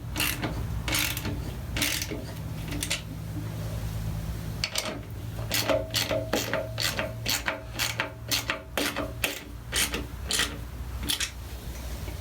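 Hand ratchet wrench clicking in runs of back-and-forth strokes, a few clicks a second, with a short pause about three seconds in.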